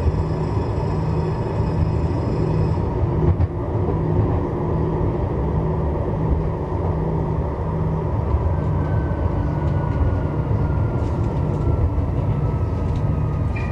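Strasbourg Eurotram running between stops, heard from inside: a steady low rumble of wheels on rail, with a thin electric motor whine sliding slowly down in pitch over the last few seconds as the tram slows.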